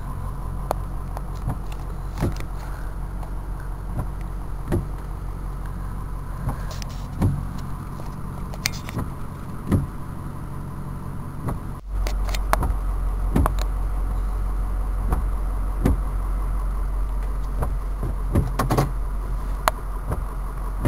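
A car's engine idling steadily, heard from inside the cabin, with scattered sharp ticks and knocks. The hum gets louder about 12 seconds in.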